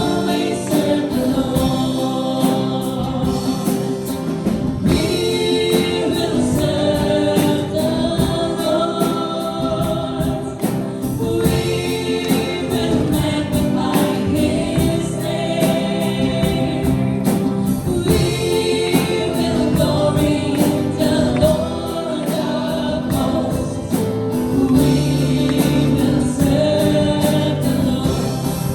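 Worship team singing a gospel song together with a band accompaniment and a steady beat.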